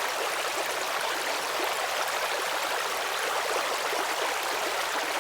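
Flowing stream: a steady rush of running water.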